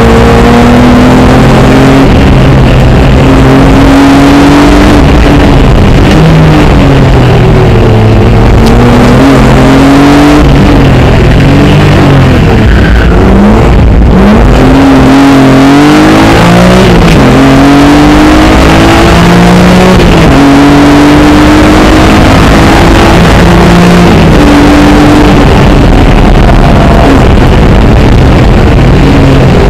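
Rally car engine at full stage pace, heard from inside the cabin: it revs up through the gears, its pitch climbing and dropping at each shift. About halfway it falls away as the car slows for a junction, then climbs hard again as it pulls away. Very loud throughout.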